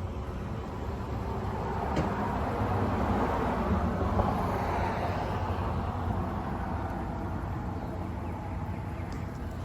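Vehicle driving on the road: steady engine and tyre rumble that swells a little mid-way and then eases.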